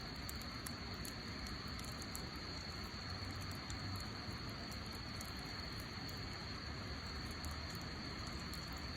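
Wood fire burning, with scattered small crackles and pops over a steady hiss.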